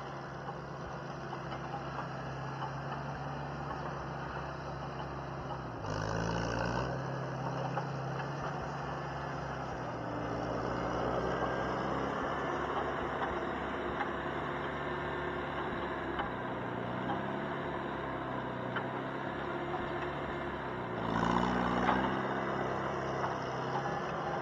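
Engine running steadily, with a brief rise in engine speed about six seconds in and another near the end.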